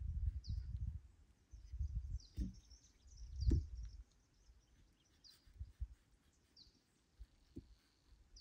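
Small birds chirping in short, high, downward-sliding chirps, repeated every second or so. Under them, irregular low rumbling fills the first half, with a sharp knock about three and a half seconds in.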